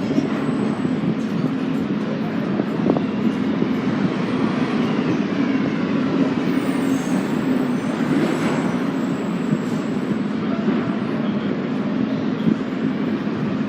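R32 subway train running along the track: a steady, loud rumble of wheels on rail.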